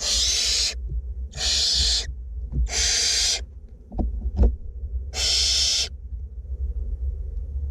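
Barn owlets giving hissing begging calls, four harsh bursts of under a second each with short gaps between. A couple of short knocks fall about four seconds in, over a low steady hum.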